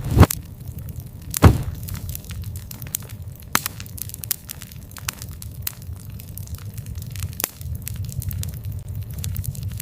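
Campfire crackling: a steady low rumble of burning wood with scattered sharp snaps and pops, two loud pops within the first second and a half.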